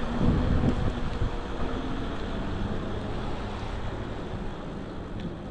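Wind buffeting the microphone of a camera on a moving e-bike, over a steady rumble of riding noise. It is loudest over the first second or so, then steadier.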